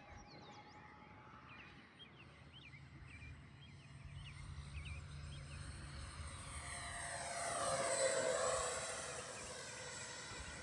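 Twin 40 mm electric ducted fans of an RC F-18 jet whining as it flies past, building to a peak about eight seconds in and then easing off. Short bird chirps sound in the first few seconds.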